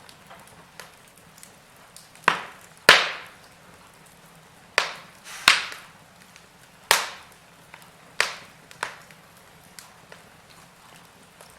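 Wood fire in a fireplace crackling: about half a dozen loud, sharp pops with smaller ticks between them over a faint steady hiss.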